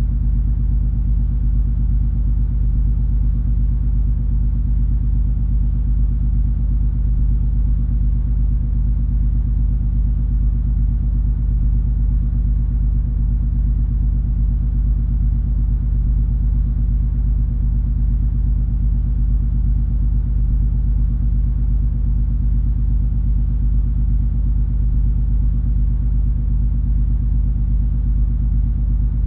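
Steady drone of the cruise ferry MS Color Magic's engines and machinery heard on board: a deep, unchanging hum with a few low steady tones in it.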